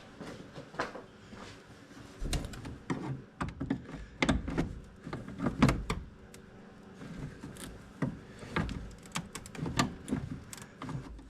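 Irregular knocks, clunks and rattles of handling close to the microphone, loudest about five and a half seconds in, which the mechanic takes for himself bumping the camera.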